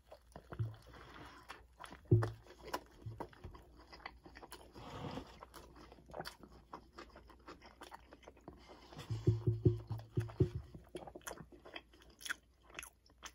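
A person biting and chewing a crispy fried chicken sandwich (a KFC BBQ Big Crunch Stacker), close to the microphone. The breading crunches in short crisp clicks, with a quick run of chewing strokes about nine seconds in.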